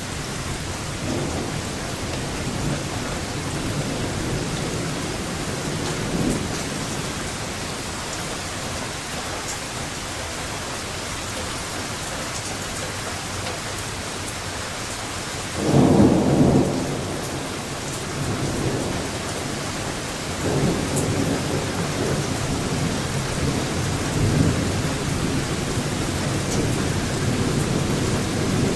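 Steady rain with rolling thunder. A low rumble comes early, the loudest thunderclap breaks suddenly just past halfway, and long rumbling follows through the last third.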